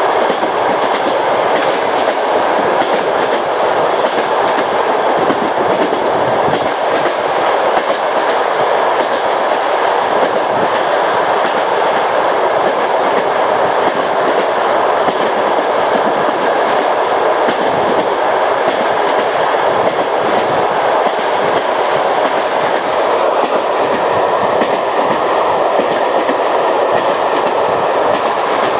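Train wheels rolling over rail joints at speed: a steady, loud rumble with a continuous clickety-clack of the wheels striking the joints. A faint steady whine joins in near the end.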